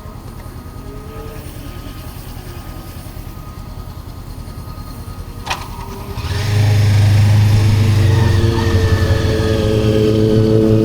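Motorcycle engine running with a low, steady pulse, and a single sharp click about five and a half seconds in. A little after that, a much louder sound with steady held tones takes over.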